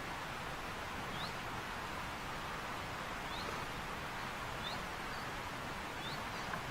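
Steady outdoor background hiss with a small bird chirping faintly four times, each a short rising chirp.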